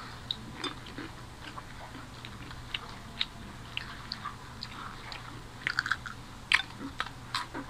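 Close-up eating sounds: people chewing and biting into fried moghlai paratha, with soft crunches and small crackling clicks, busier near the end.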